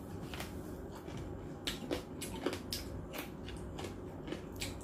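Close-up eating sounds: a mouthful of roast pork (lechon) being chewed, with scattered sharp wet clicks and smacks at an irregular pace.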